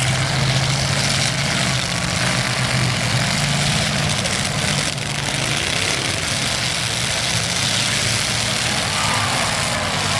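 Demolition derby cars' engines running in the arena, a steady low drone under a hiss of noise.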